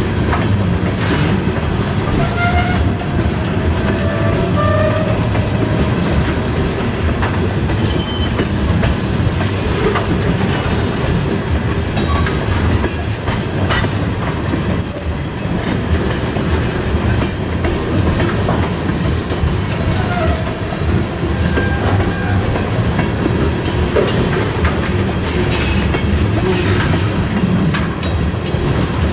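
Freight train cars rolling along the rails with a steady clatter from the wheels, and short high squeals from the wheels now and then.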